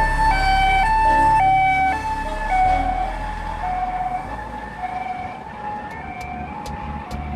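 Two-tone hi-lo siren alternating between a higher and a lower note about every half second, loud at first and fading away over the last few seconds.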